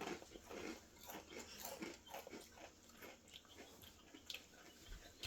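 Faint, irregular crunching and chewing of ridged potato chips (Flamin' Hot BBQ Ruffles) being bitten and eaten.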